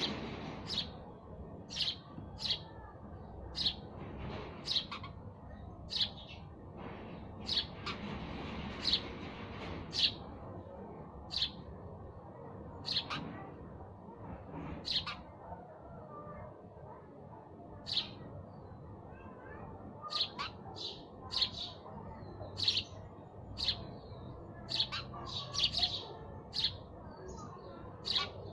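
House sparrows chirping: short, sharp chirps coming irregularly, every half second to two seconds, and crowding closer together near the end, over a steady low background noise.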